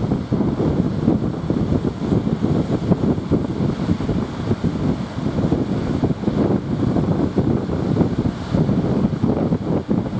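Strong wind buffeting the microphone: a loud, gusting rumble that rises and falls without letting up.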